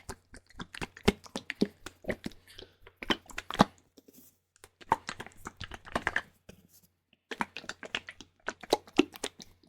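Close-miked ASMR liquid sounds: quick, irregular wet clicks and crackles made by hand with a liquid, pausing briefly twice.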